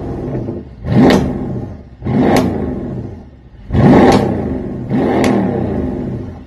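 A car engine with a loud aftermarket exhaust being revved in quick throttle blips, about four, each surging up and falling back toward idle.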